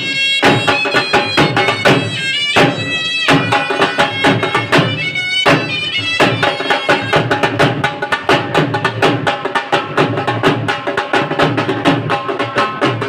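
Traditional folk music: a reedy wind instrument plays held, wavering notes over fast, driving drumming. From about six seconds in, the drumming takes over and the held notes drop back.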